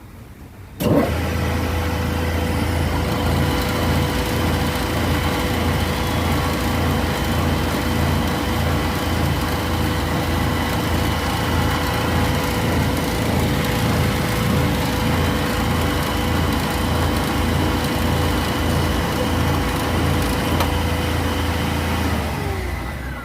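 A freshly repaired 24 V Lucas alternator spun up for a charging test. It starts suddenly about a second in, runs at a steady speed with a steady whine over a low rumble, then winds down near the end with a falling whine. The test shows it charging at over 28 volts.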